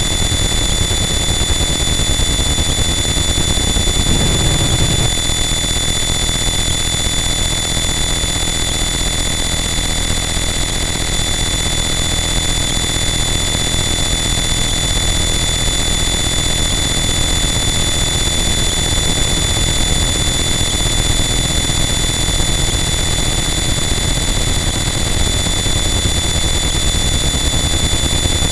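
Harsh noise wall: a loud, static wall of dense distorted noise with a heavy low rumble and steady high-pitched whine tones on top, barely changing. There is a brief shift in the low end about four seconds in.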